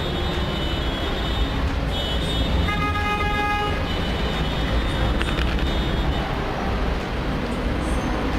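Street traffic running with a steady low rumble, and a vehicle horn sounding for about a second around three seconds in, with fainter horn tones before and after it.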